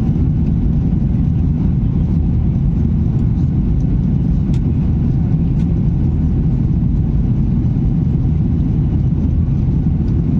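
Boeing 737-800's CFM56 jet engines running at high power during takeoff, a steady, loud, low rumble.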